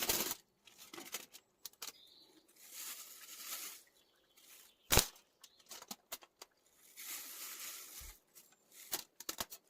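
Aluminium foil rustling and crinkling as it is handled, in two longer stretches with small clicks between, and one sharp knock about five seconds in.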